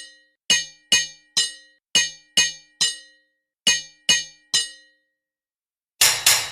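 A hammer striking an anvil, with a ringing clang on each blow. About ten evenly spaced strikes come roughly two a second, there is a short pause, and then three quick strikes land near the end.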